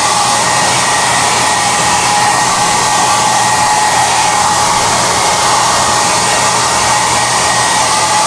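SOUNATE high-airflow hair dryer running steadily: a loud, constant rush of air with a steady motor whine over it.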